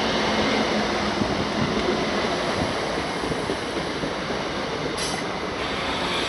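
ScotRail electric multiple unit running past and pulling away along the platform, with a steady noise of wheels on rails.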